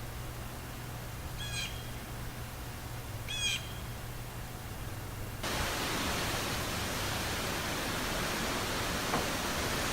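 A bird calls twice in short, harsh calls over a low background hum. About halfway through, the sound cuts abruptly to a steady, louder rushing hiss.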